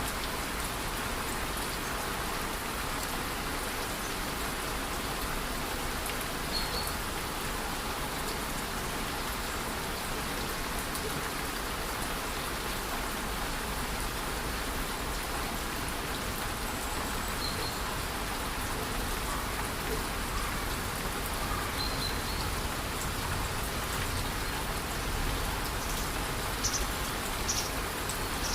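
Waterfall and light rain in a rainforest: a steady, even rush of falling water. A few short high chirps sound above it, about 7, 17 and 22 seconds in.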